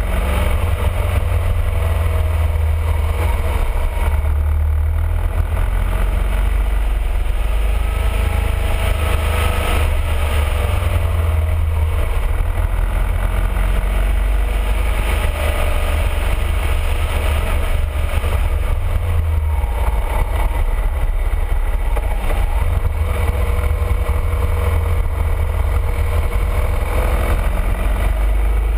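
BMW R1200RT motorcycle's boxer-twin engine running on the move, its pitch slowly rising and falling as the revs change, over a heavy steady low rumble of wind on the camera.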